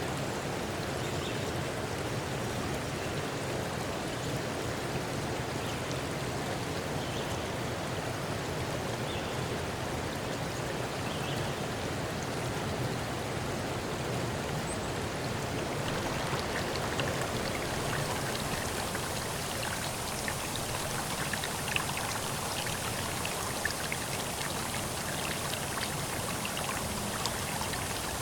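Running water, a steady stream or small waterfall rushing. A little past halfway it turns brighter, with scattered drips and splashes.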